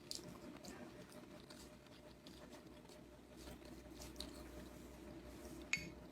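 Faint chewing and small wet mouth sounds of someone eating a rice and curry meal, with scattered soft clicks and one sharp, briefly ringing clink near the end.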